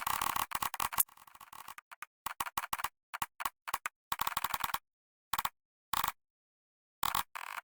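Typing on a computer keyboard in short bursts of rapid key clicks, with pauses between bursts.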